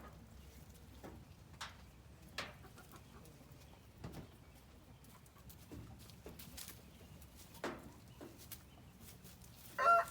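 Chickens in a coop, mostly quiet with a few brief scattered clucks and small noises. Near the end a rooster starts to crow loudly.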